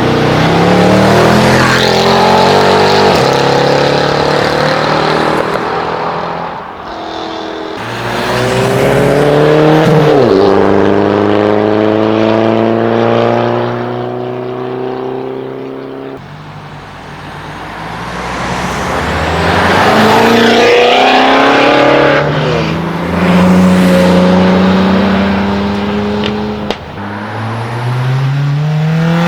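Several modified cars accelerating away in turn, their exhausts loud. Each engine's pitch climbs, then drops sharply at a gear change before climbing again.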